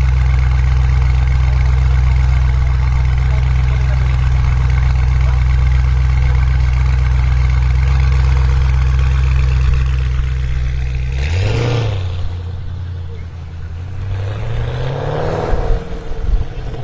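Audi RS6 Avant C8's twin-turbo V8 idling with a steady deep rumble through a Capristo exhaust, then blipped twice: a short rev about eleven seconds in and a higher one about fifteen seconds in, with a few sharp cracks near the end.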